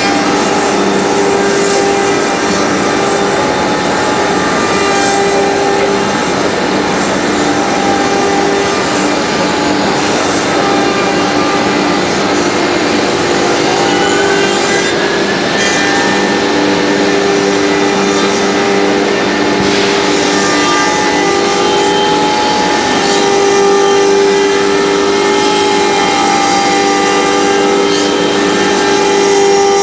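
Nicecnc BD-M25 CNC router running, its steady whining tones held over dense machining noise, with a short rising tone about halfway through.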